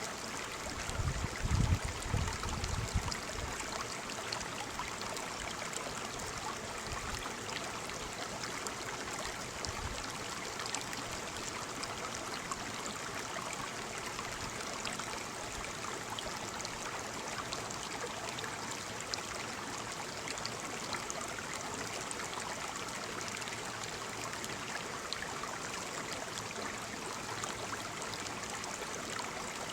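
Waterfall: a steady rush of falling water. About a second in, a few low thumps rise above it for a couple of seconds, with one more near ten seconds in.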